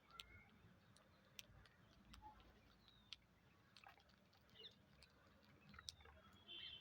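Faint scattered clicks and crunches of parrots eating, with a few soft chirps and a short parrot call near the end.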